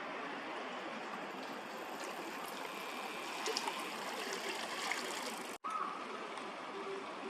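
Steady rushing of a shallow park stream, with a sudden momentary dropout a little over five seconds in.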